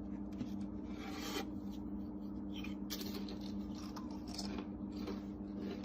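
Irregular scratching and rubbing strokes over a steady low hum.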